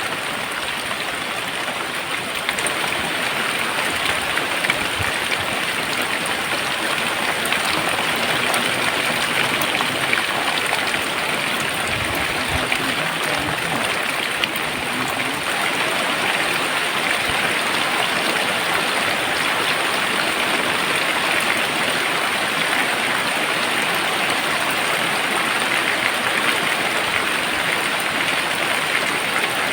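Very heavy rain pouring steadily, a dense even hiss of falling drops.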